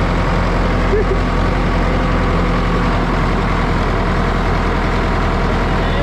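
Tractor engine running steadily at a constant speed, a continuous low drone.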